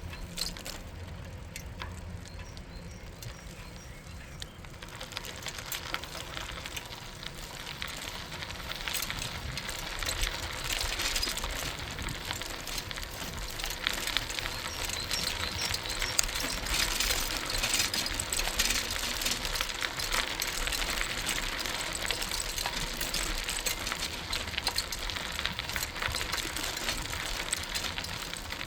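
Bicycle riding heard from the rider: tyres rolling over the path with a steady rushing noise and small ticks, which grows louder about five seconds in.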